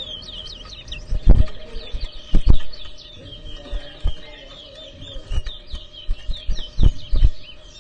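Caged towa-towa seed finch singing a fast run of high chirped whistles in a bird-song contest, broken by several loud thumps about a second in, twice around two and a half seconds, and twice near the end.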